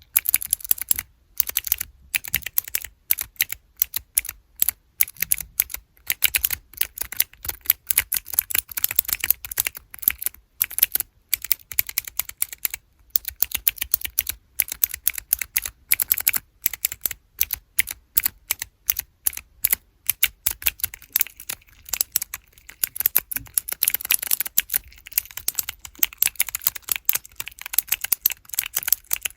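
Keychain keyboard-key blocks with blue mechanical switches being pressed over and over, crisp clicky snaps in quick irregular runs of several a second.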